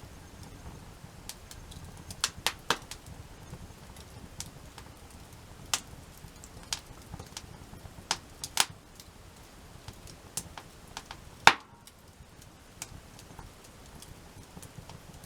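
Burning wood in a campfire crackling and popping: irregular sharp snaps, with the loudest pop about eleven seconds in.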